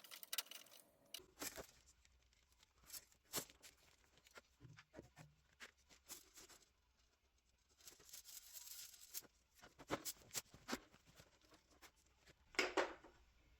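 Quiet, scattered clicks, taps and scrapes of hand work on steel brake tubing and small tools, with a couple of sharper knocks near the end.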